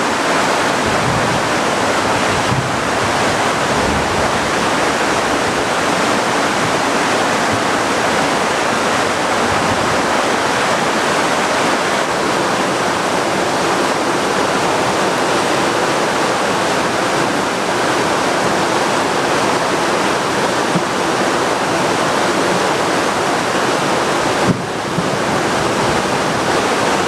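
Heavy tropical downpour: a loud, steady, dense hiss of rain. Near the end, a single knock.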